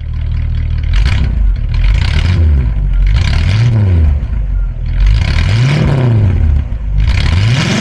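1960 Cadillac Coupe DeVille's V8 running and being blipped, heard from behind the car at the exhaust: several revs about two seconds apart, each climbing and dropping back toward idle.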